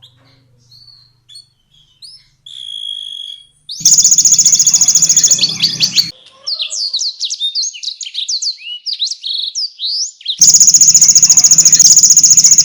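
Canary singing. A few soft notes and one short held whistle open the song. Then come a loud, very fast trill, a run of quick downward-sliding notes, and another loud fast trill about ten seconds in.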